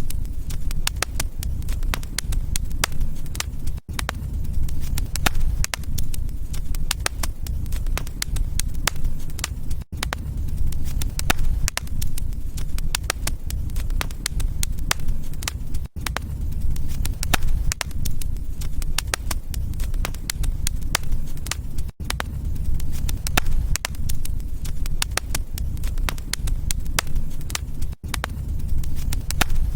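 Wood fire crackling, with many sharp pops and snaps over a low steady rumble. The sound drops out briefly about every six seconds.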